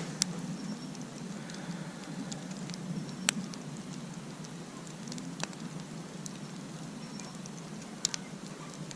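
Wood campfire crackling, with a few sharp pops, the loudest about three seconds in, over a steady background hiss.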